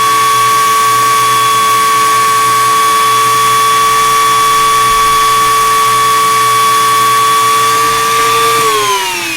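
Small high-speed electric rotary tool running with a steady high whine while polishing a plastic earbud case, then switched off near the end, its pitch falling as it spins down.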